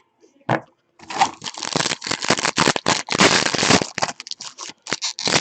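Trading card pack wrapper being torn open and crinkled: a short rip about half a second in, then a dense run of crackling and crinkling from about a second in.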